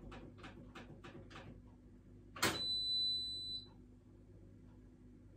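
A button clicks and the washing machine's control panel answers with a single high electronic beep lasting a bit over a second. Before it comes a run of soft taps, about three a second.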